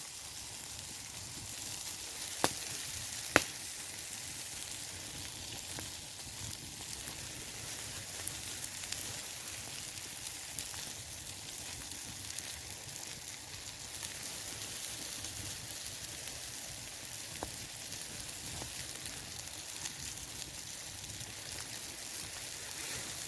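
Steak burgers frying in oil in a TF grill pan over campfire coals: a steady sizzle, with two sharp clicks a few seconds in.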